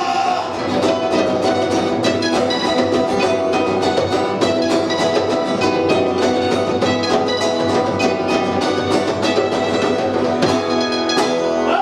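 Punk rock band playing live, an instrumental passage with electric guitar and drums at full volume, no vocals.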